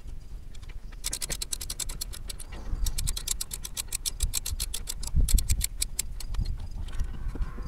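Hand ratchet wrench clicking in quick runs as a bolt is turned, with low knocks of tools and parts being handled.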